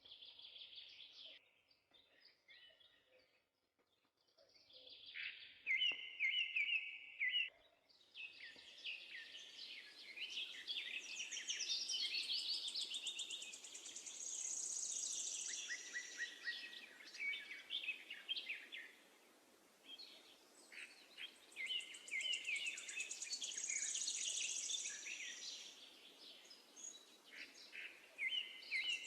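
Sparrows chirping: scattered calls at first, then dense, continuous flock chatter from about eight seconds in, over faint background noise.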